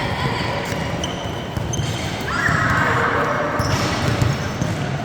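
Basketball game in a gym: a ball bouncing on the court with short squeaks of sneakers, over a background of spectators' voices echoing in the hall. A louder noisy burst comes from about two to three and a half seconds in.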